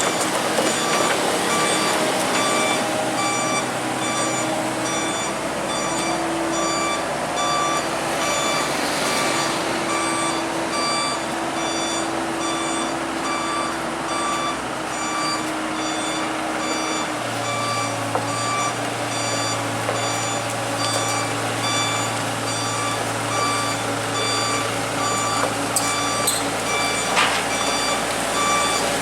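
Komatsu excavator's diesel engine running while its travel alarm beeps at an even pace. About two-thirds of the way through, the engine note changes to a deeper steady hum.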